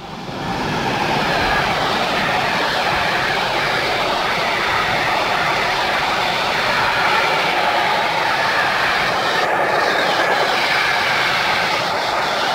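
Intermodal container freight train, hauled by an E186 Bombardier Traxx electric locomotive, passing close by. The loaded and empty container flat wagons keep up a loud, steady rolling rumble over the rails, which rises in the first second. A couple of brief high squeaks come near the end.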